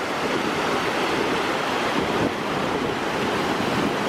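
Waterfall rushing steadily: a continuous, even wash of falling water.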